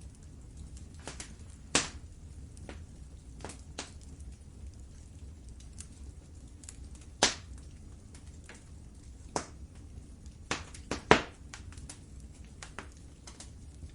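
Wood fire burning in a fireplace, crackling with irregular sharp pops over a low steady rumble; the loudest pops come about two seconds in, about seven seconds in, and in a quick cluster near eleven seconds.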